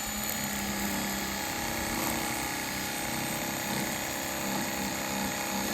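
Electric knife running steadily, its motor humming as it saws through frozen mullet cut for bait.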